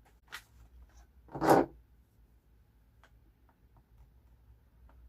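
Paper and stickers being handled at a craft table: a faint click, then one short papery rasp about a second and a half in, followed by a few light ticks.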